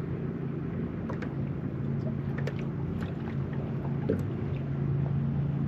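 Boat motor running with a steady low hum, with scattered small ticks and splashes over it.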